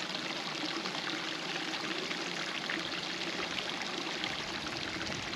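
Small waterfall with a low flow pouring into a rock pool: a steady splashing trickle of water.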